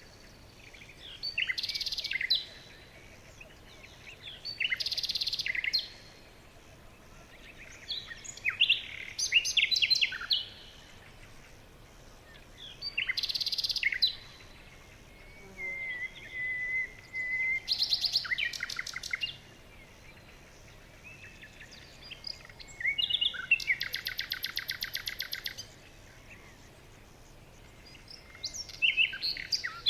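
Birds singing in short, separate phrases every few seconds. A held whistle comes about halfway through, and a fast, even trill comes near the end.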